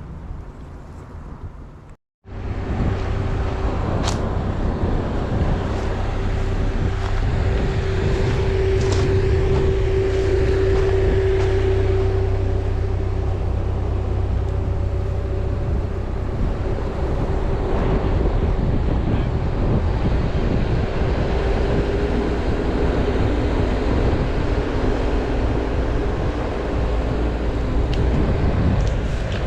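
Vehicle engine running steadily with a low drone, and wind noise on the microphone.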